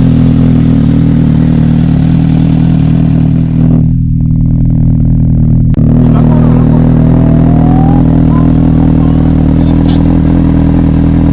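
Superbike engine revved hard and held at a steady high pitch against its rev limiter, very loud throughout; around four seconds in the top end goes dull for about two seconds, then comes back.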